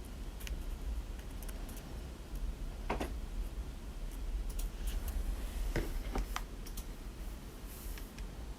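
Scattered light clicks and taps of matchsticks and a glue gun being handled on a tabletop during gluing, with a few sharper knocks about three and six seconds in, over a low steady hum.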